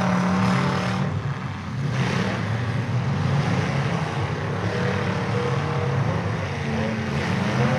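Demolition derby cars' engines running and revving together in a steady low drone that shifts in pitch, with a brief dip in level about one to two seconds in.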